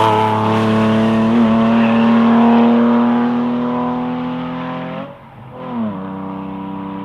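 Rally car engine at high revs, holding a steady note for about five seconds. It then lifts off sharply, with a short falling blip, and runs on at lower revs.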